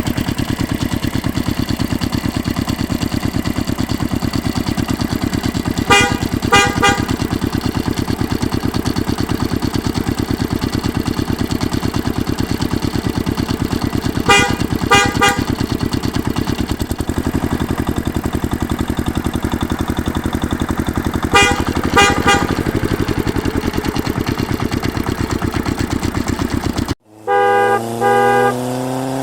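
Tractor engine running steadily with an even, rapid pulse. Short horn toots come in groups of two or three, three times. Near the end the engine sound cuts off abruptly; horn blasts follow, then an engine starts revving up.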